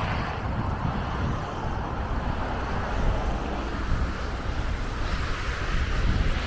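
Steady rumble of city street traffic with wind buffeting the microphone.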